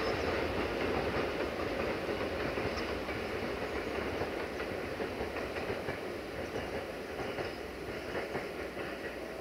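Freight train of tank wagons rolling past on the rails, fading gradually as it moves away.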